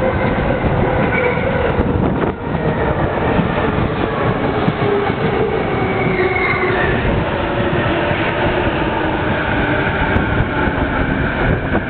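A Keihin-Tohoku Line electric commuter train runs past close by along the platform. Wheel and track noise is mixed with the whine of its electric motors, which shifts in pitch as it goes.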